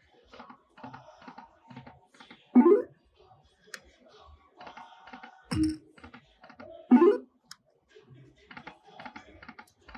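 Lightning Link slot machine spinning: a run of light, rapid clicks and ticks as the reels spin and stop. Three louder short electronic tones stand out, spaced a few seconds apart.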